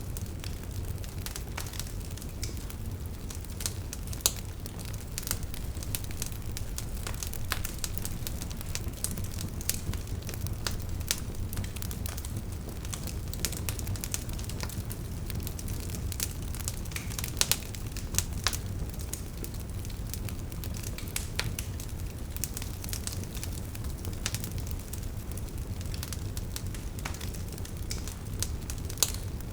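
Wood fire burning, with a steady low rumble of flame and frequent sharp crackles and pops from the logs scattered throughout.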